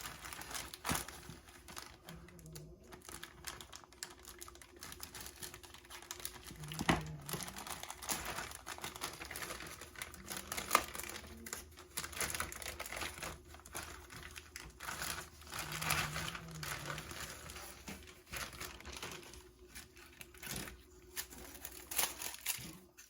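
Plastic bag crinkling and rustling as it is opened and handled, with scattered light clicks of hard plastic parts.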